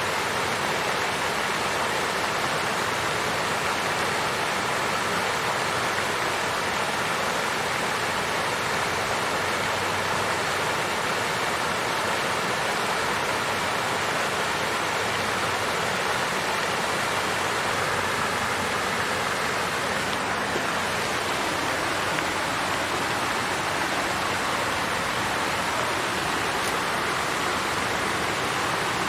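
Gentle water fountain flowing: a steady, even rush of water with no breaks.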